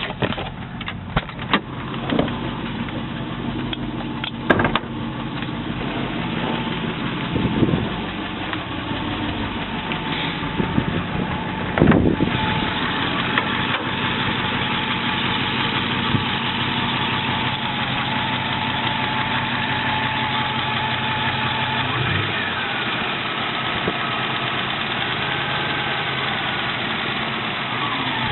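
Triumph Stag's 3.0-litre V8, warmed up after a short drive, running with a faint knock still audible. Several sharp clicks and brief surges come in the first dozen seconds, after which it settles into a steady idle.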